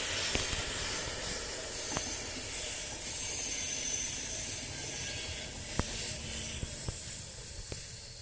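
Locomotive-hauled passenger train passing at speed: a steady rush of wheels on rail with a high hiss, a faint high whistle and occasional sharp clicks, easing off toward the end.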